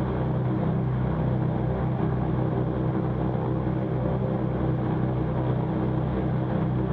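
The Cessna 310Q's twin piston engines idling, a steady even drone with no change in speed.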